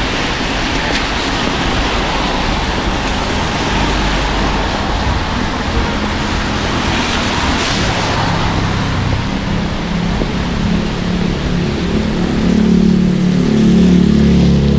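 Road traffic on a wet street: a steady hiss of passing cars' tyres. A deeper engine hum builds over the last few seconds as a heavier vehicle goes by.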